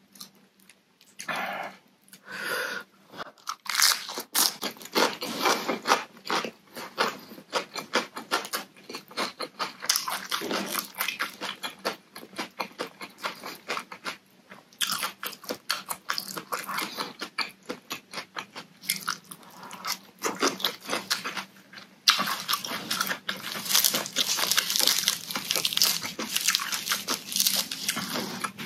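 Close-miked chewing and crunching of shredded raw green papaya and carrot salad, an irregular run of crisp crunches. It grows louder and sharper about three-quarters of the way in.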